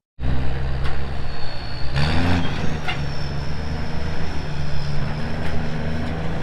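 Truck engine running steadily, cutting in suddenly, with a brief rise in pitch about two seconds in and a few sharp clicks.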